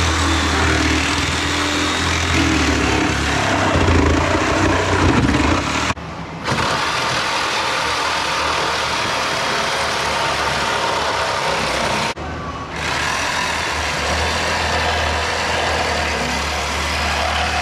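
Power tools cutting the sheet-metal roof of a Jeep Cherokee body: a loud, continuous, hissing cutting noise over a low steady hum, broken off abruptly twice by edits.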